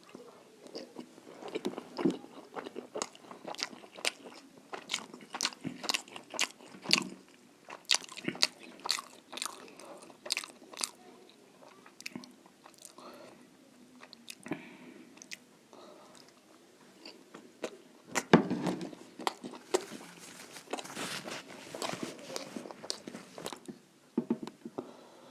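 A person chewing and biting food close to the microphone, with many quick wet clicks and smacks; they come thick for the first ten seconds or so, thin out, then come thick again near the end.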